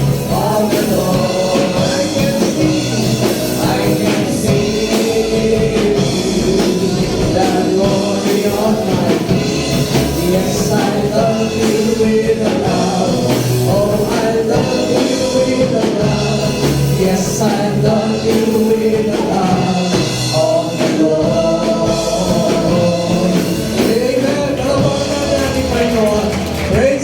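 Live church worship music: a band playing with voices singing along.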